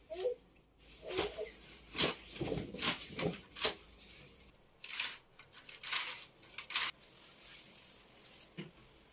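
Hard household items being handled and set down, giving about a dozen light clinks and clatters. They come in quick succession over the first few seconds, then sparser near the end.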